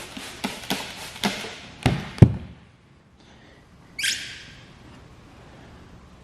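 Work noises from hands and tools on a car's rear hatch: a run of light taps and knocks, the loudest about two seconds in, then a short hiss about four seconds in.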